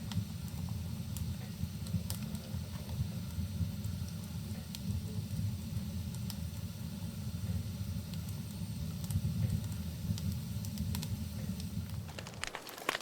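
Wood fire burning in a fireplace: a steady low rumble of flames with scattered sharp crackles and pops. Near the end the rumble cuts off suddenly and the crackling becomes thicker.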